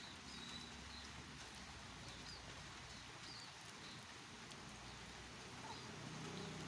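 Rain falling steadily, an even hiss, with short high chirps repeating about once a second over it.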